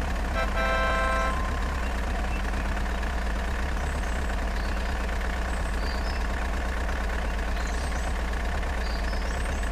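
Steady truck-engine idle, with a horn sounding once for under a second about half a second in.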